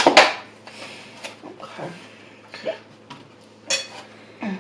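Cutlery and takeout food containers being handled: a loud clatter at the start, then scattered clinks and taps.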